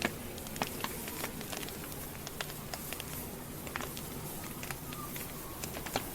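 Wood campfire burning, the logs crackling with many sharp, irregular pops over a steady hiss of the flames.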